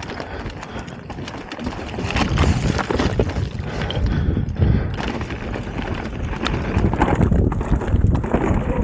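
Mountain bike riding over a rough, rocky trail: tyres and frame clattering over stones in a dense, irregular run of knocks, louder from about two seconds in, with wind rumbling on the microphone.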